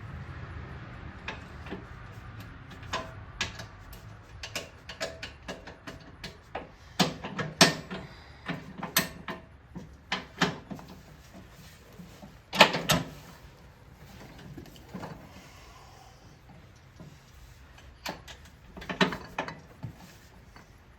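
Irregular metal clicks and clanks of hand tools and a steel mower blade being fitted back onto a zero-turn mower deck's spindle, thickest in the middle with a few more near the end.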